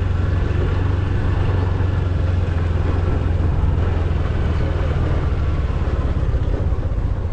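An engine running steadily at close range, a continuous low rumble with no pauses.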